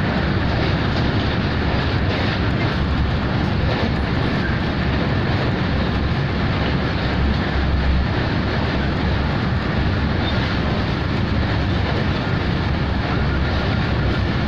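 Train running across a large railway bridge, a loud, steady rumble.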